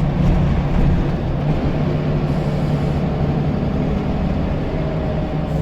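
Scania L94UB bus diesel engine running steadily under way, a low drone heard from inside the bus.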